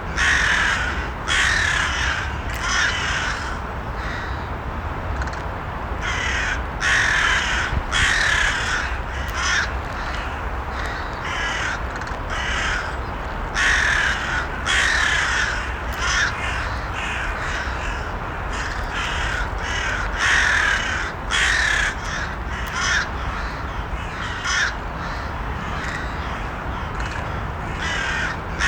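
Crows cawing: harsh calls in clusters of several, with short pauses between the groups, over a steady low background noise.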